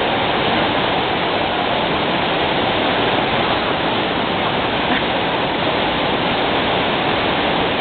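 Steady, loud rush of falling and splashing water.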